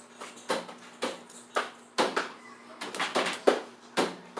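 A series of sharp knocks and clicks of hard objects, roughly two a second, with a quick cluster of them about three seconds in.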